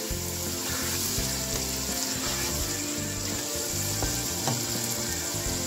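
Chicken masala frying with a steady sizzle in ghee in a nonstick pan, stirred with a slotted spatula, with a few light scrapes. The ghee has separated from the masala, the sign that the bhuna stage is done.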